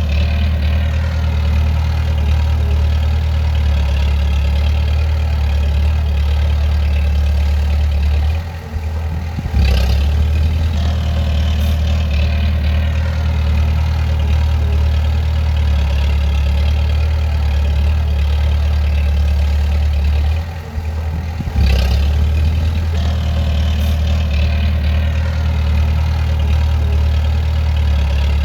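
Bulldozer's diesel engine running steadily with a deep, low hum. Twice the sound drops briefly, and each time it returns with a sharp knock.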